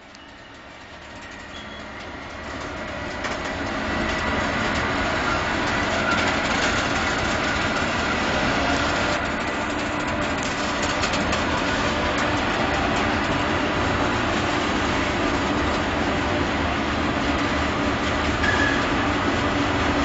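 Freight train of covered hopper wagons rolling past on the track, the wheels clattering over the rails. The sound builds over the first few seconds, then runs steady.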